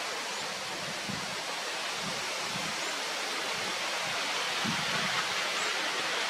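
Steady rushing outdoor ambience: an even hiss like running water or wind through foliage, with soft low rumbles now and then.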